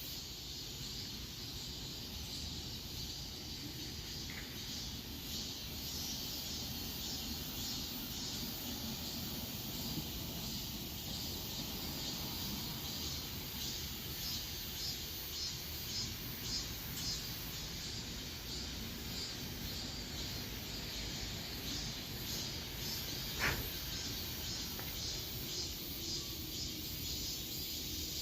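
Outdoor ambience: a steady low rumble under irregular high-pitched insect chirping, with one sharp click about 23 seconds in.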